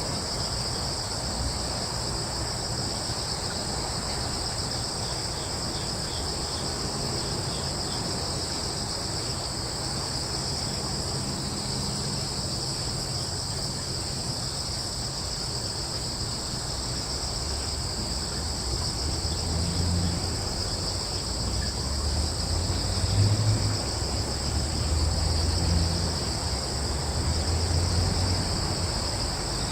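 Steady chorus of crickets, a continuous high-pitched trilling, over a low rumble that swells in the last third.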